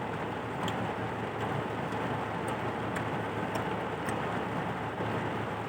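Heavy rain falling in a steady hiss, with a few faint sharp ticks of drops striking a surface.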